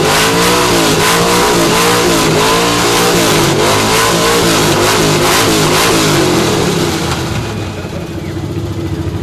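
1970 Chevrolet Kingswood station wagon's engine running through open headers, revved hard in quick repeated blips, about one a second, then dropping back to a steady idle about seven seconds in.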